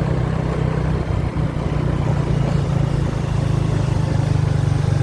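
Motorbike engine running steadily with an even low hum.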